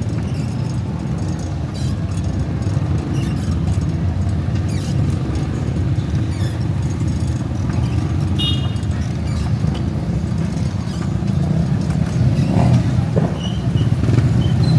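Steady low rumble of a motor vehicle's engine and road noise running throughout, with a brief high chirp about eight seconds in.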